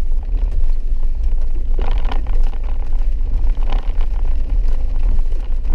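Vehicle driving on a rough dirt mountain road, heard from inside the cab as a steady low rumble, with two brief clatters about two and four seconds in.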